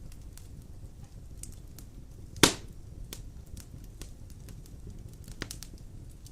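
Wood fire of large logs burning in a fireplace: a low steady rumble of flames with scattered small crackles, one loud sharp pop about two and a half seconds in and a smaller one near the five-second mark.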